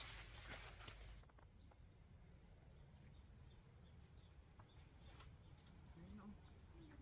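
Faint, steady high-pitched trill of a cricket, with a few soft clicks; a brief hiss fades out in the first second.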